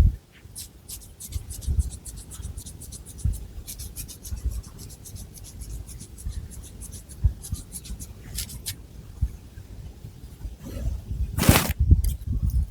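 Long fingernails scratching through thick hair and over the scalp, close to the microphone: quick, crackly scratches with soft low bumps. There is one louder, longer scrape near the end.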